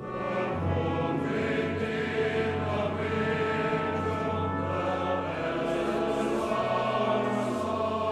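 Choral music: a choir singing slow, held chords over a low bass line that changes every second or two.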